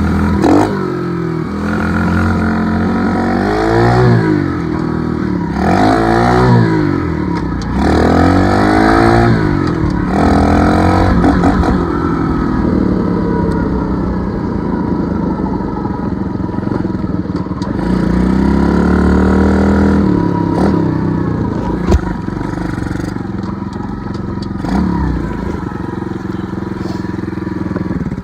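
Dirt bike engine pulling away in first and riding, its pitch repeatedly rising and dropping back as it revs up and changes gear, with a longer spell of steady high revs in the middle. A single sharp click comes about 22 seconds in.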